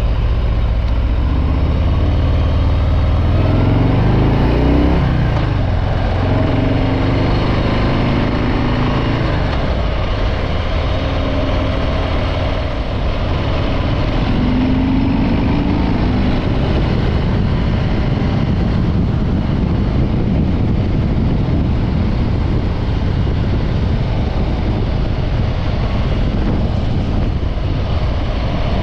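Stock Harley-Davidson Breakout 114's Milwaukee-Eight V-twin running under way. It rises in pitch as it accelerates a few seconds in and again about halfway through, then settles into a steady cruise with road and wind noise.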